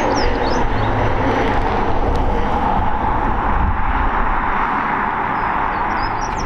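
Jet airliner engines running loud and steady at the airport, a broad even noise over a low rumble that eases off slightly toward the end.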